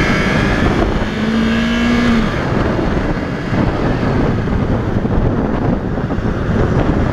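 2015 Yamaha YZF-R3's parallel-twin engine running under way, its note rising briefly about a second in, over a steady rush of wind and road noise.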